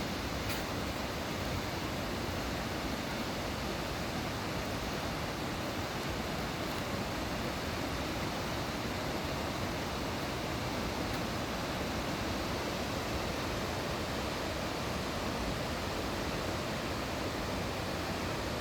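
Mountain valley stream rushing, a steady, even, quite loud sound of flowing water.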